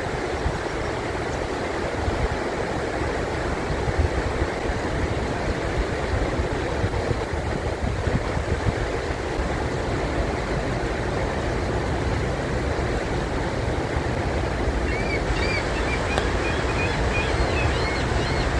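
River water rushing steadily over rapids, an even, unbroken rush. Near the end a series of short, high, looping whistled notes sounds over it.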